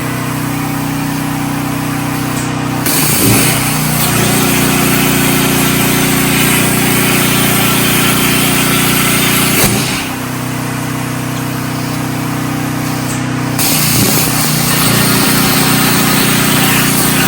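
Portable generator engine running steadily under a CNC plasma cutter cutting thin hot rolled steel plate. The torch's hiss starts about three seconds in, stops near ten seconds, and starts again around fourteen seconds, with a short click at each change.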